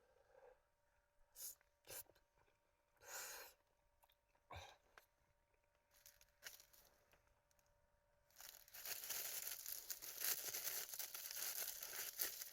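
Packaging being handled and torn open: a few short rustles and scrapes, then about eight seconds in a longer, louder stretch of crinkling and tearing.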